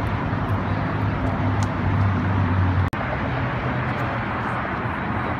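Steady outdoor vehicle noise with a low engine hum. The sound breaks off abruptly twice, at the very start and about three seconds in, where the footage is cut.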